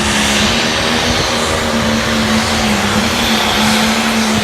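Light pro stock pulling tractor's turbocharged diesel engine running hard at high, steady revs, with a loud, even drone that barely changes in pitch.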